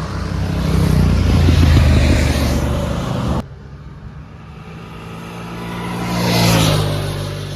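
Sport motorcycles accelerating hard past. The first engine swells and then cuts off suddenly a little over three seconds in; a second bike's engine rises and fades near the end.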